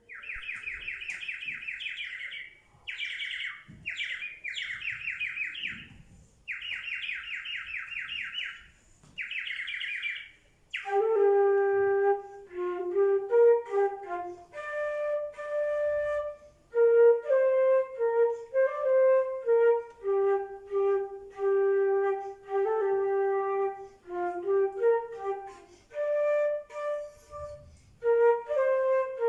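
A songbird sings about five quick, trilled phrases, each lasting a second or two. About eleven seconds in, a solo flute melody takes over.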